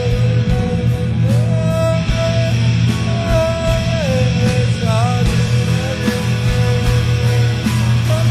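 Rock music: a full band with bass and drums under a sustained, sliding lead melody that steps up and down.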